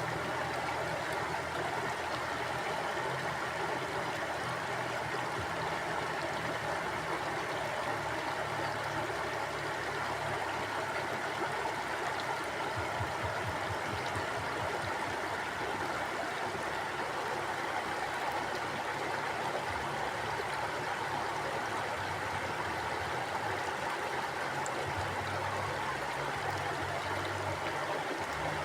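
Mountain stream flowing steadily, water rushing and gurgling over rocks.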